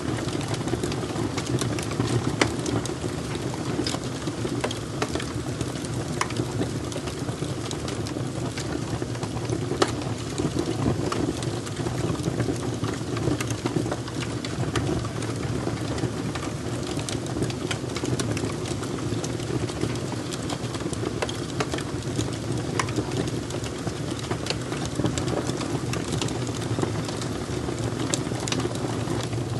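Fire crackling: a steady low rumble with frequent scattered pops and snaps.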